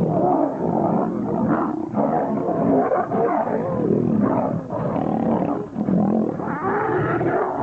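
Large wild animals snarling and roaring without a break during a fight.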